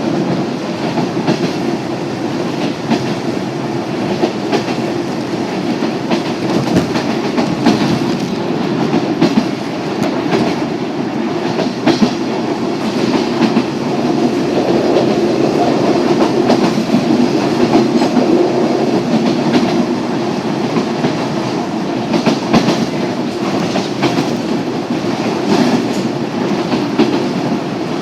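Yoro Railway electric train running, heard from inside the carriage: a steady noise of wheels on rail, with the clickety-clack of the wheels over rail joints coming irregularly throughout.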